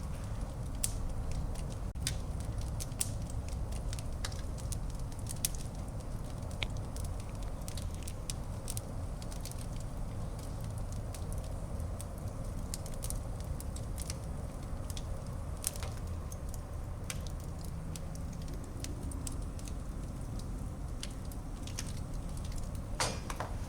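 Wood fire burning in a fireplace, with a steady low rumble of flames and irregular sharp crackles and pops.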